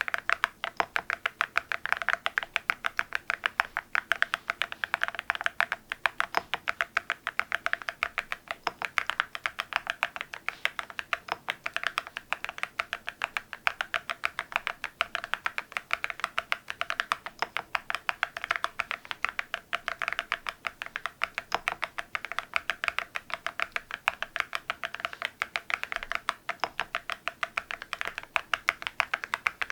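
Continuous typing on an MZ Y3 mechanical keyboard fitted with Cerakey ceramic keycaps: a fast, unbroken run of sharp, clacky keystrokes, several a second.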